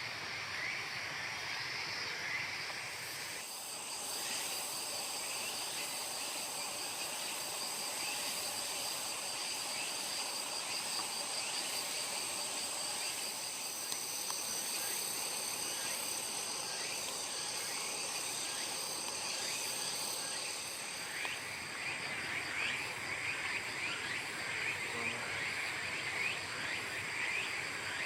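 A chorus of frogs calling in short repeated croaks, with insects trilling steadily at a high pitch. A few seconds in, the frog calls drop back and the insect trill dominates; the frogs come back strongly about three quarters of the way through.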